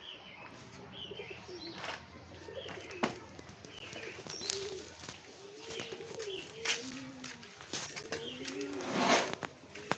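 Pigeons cooing over and over in low, rising-and-falling coos, with small birds chirping higher up. There are scattered clicks, and a short, louder noise about nine seconds in.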